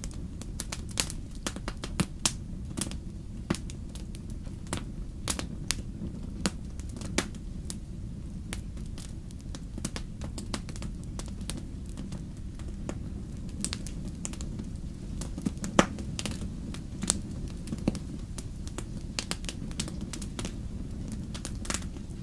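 Campfire crackling: irregular sharp pops and snaps of burning wood, several a second at times, over a steady low rumble of the flames.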